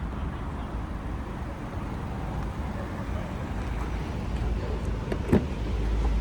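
Steady low rumble of a motor vehicle, with a single sharp click about five seconds in.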